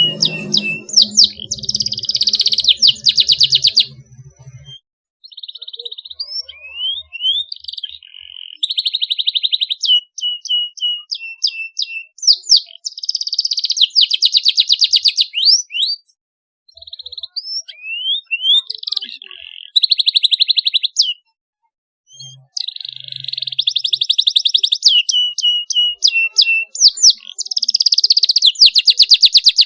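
Domestic canary singing in phrases of fast, sharp rolling trills and quick rising chips, broken by short pauses.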